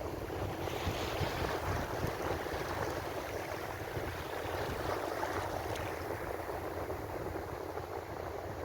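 Ocean waves washing in as a steady surf hiss, swelling slightly about a second in and again around five seconds.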